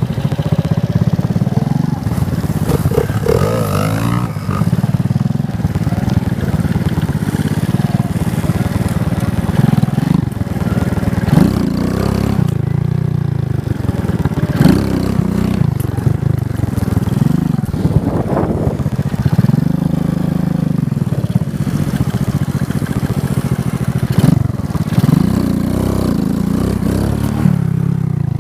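Motorcycle engine running under way, revving up and easing off again and again, its pitch rising and falling in repeated sweeps.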